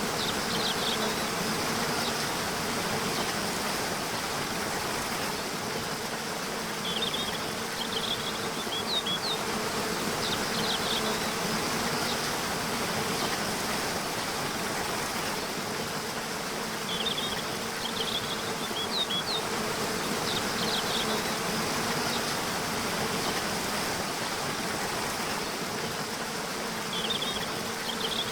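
Waterfall rushing steadily, under a continuous buzzing hum like an insect's drone. Short high bird chirps come in small clusters about every nine seconds.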